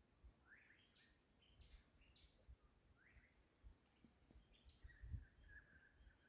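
Faint wild bird calls: a run of short rising chirps, then a thin steady whistled note in the last second or so. Occasional low bumps sound in the background.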